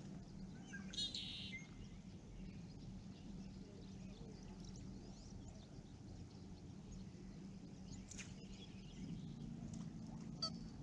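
Outdoor birds calling: a short, bright call about a second in and a few fainter calls and chirps later, over a steady low hum.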